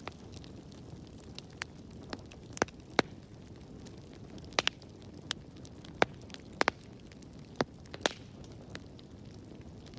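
Wood fire in a fireplace crackling, with about a dozen sharp, irregular pops over a steady low hiss of the flames.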